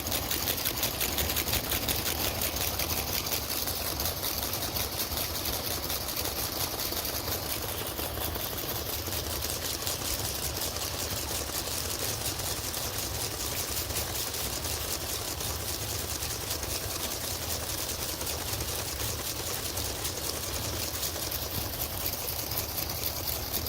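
Lego electric motors driving the gear trains, brushes and conveyor of a Lego car wash: a steady whir with fast, even ticking of plastic gears.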